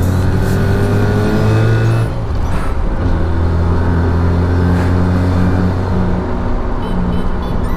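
Mazda RX-7's turbocharged 13B rotary engine pulling under acceleration with its electric exhaust cutout closed. The pitch rises for about two seconds, drops sharply at a gear change, then the engine runs on at a steady pitch.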